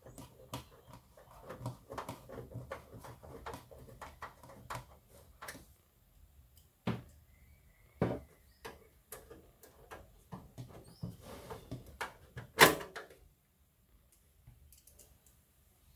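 Scattered clicks, taps and knocks of hands handling a PC power supply and its cables, with a louder knock about three-quarters of the way through.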